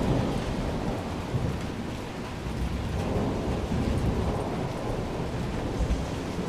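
Thunder rumbling low over steady rain, slowly easing.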